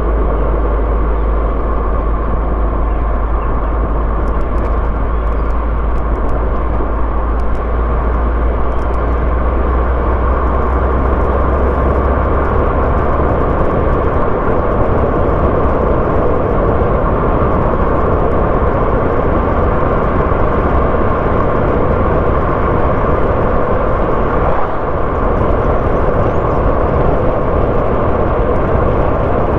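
Car driving along a road, with steady engine and tyre noise. A deep low rumble under it drops away about halfway through.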